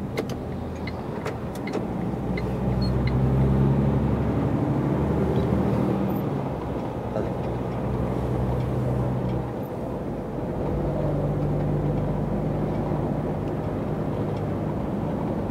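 Truck engine and road noise heard from the driver's cab while driving: a steady engine drone that drops briefly about nine and a half seconds in, then picks up again.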